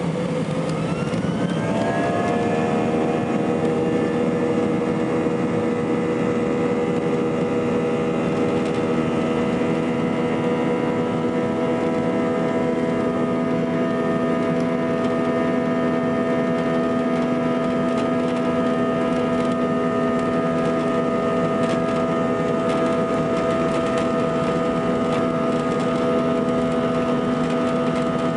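Airbus A320 jet engines spooling up for takeoff. Their whine rises in pitch over the first two or three seconds, then holds steady at high thrust.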